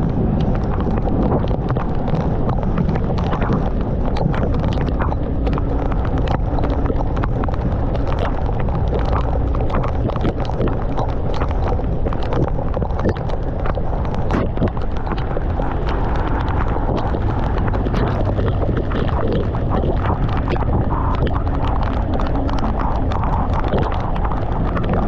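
Riding a motorcycle in heavy typhoon rain: a steady deep rumble of wind and engine, with a constant scatter of sharp taps from raindrops striking the microphone.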